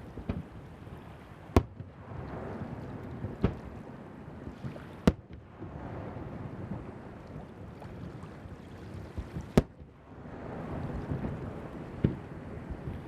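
Aerial fireworks shells bursting over the sea: sharp single bangs every couple of seconds, about five loud ones, over a steady rush of surf and wind on the microphone.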